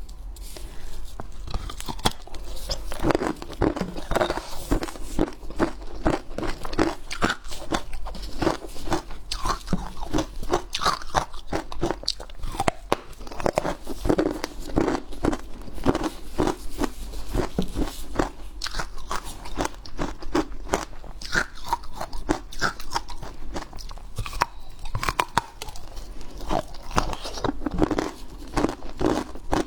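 Hard ice being bitten and chewed close to the microphone: a continuous run of irregular loud crunches and cracks, several a second.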